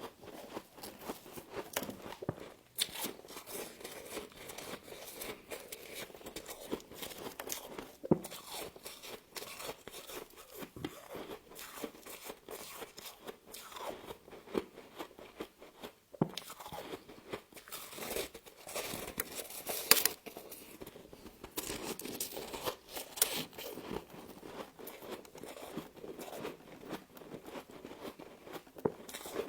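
Frost being bitten and chewed, a dense, irregular crunching and crackling that runs on without a break, with sharper crunches about 8 seconds and 20 seconds in.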